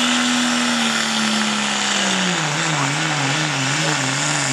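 Diesel pulling truck's engine running at high, steady revs under full load; about two seconds in the revs drop and then surge up and down about twice a second as the engine bogs under the sled's weight.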